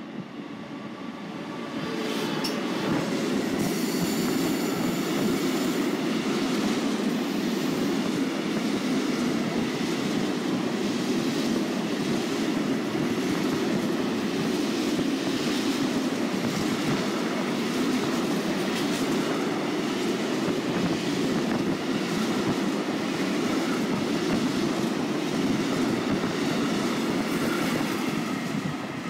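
Freight train of tank wagons, hauled by an electric locomotive, passing close at speed: a steady rumble of steel wheels on rail with clickety-clack over the joints. It swells about two seconds in as the locomotive arrives, with some thin high ringing tones while it passes, and falls away near the end as the last wagons go by.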